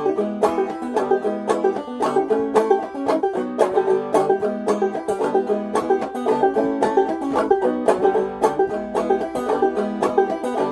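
Clawhammer banjo playing an instrumental break: quick plucked notes in a steady, driving rhythm.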